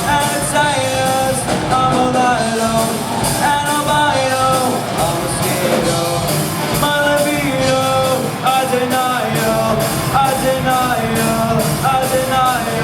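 Live rock band playing: drum kit with steady cymbal and snare hits, electric guitars and bass, under a melodic lead line that steps and bends in pitch.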